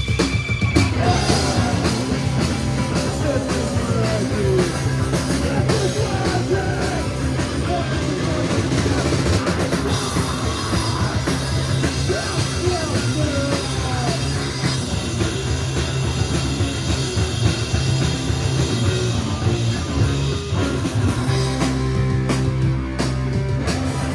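Live rock band playing loudly, with drum kit and electric guitar.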